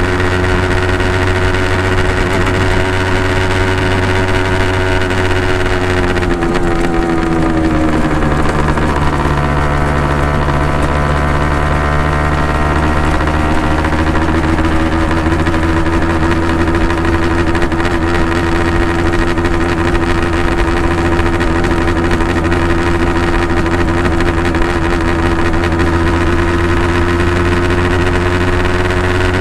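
Honda NSR250R (MC21) two-stroke V-twin running through Dog Fight Racing expansion chambers: a steady exhaust note that drops in pitch about six seconds in, then slowly climbs back and holds.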